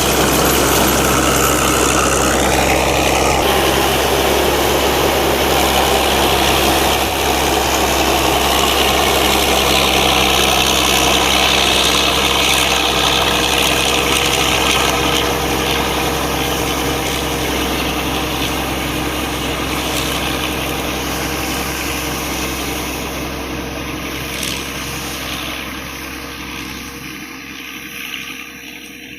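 Combine harvester's Isuzu 6M61 six-cylinder diesel engine running steadily, with its machinery noise; the sound grows fainter over the second half and drops off further near the end.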